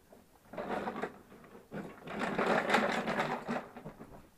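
Rapid scraping and chipping at hard ice and packed snow, in two bursts, the second longer and louder.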